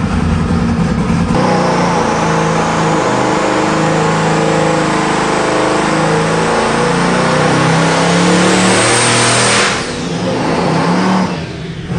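Boosted 1450 hp LSX small-block V8 making a wide-open-throttle dyno pull: it runs low at first, then about a second and a half in it climbs hard through the revs with a high whine rising in pitch. Near the end the throttle is chopped and the sound drops off suddenly, then the engine picks back up.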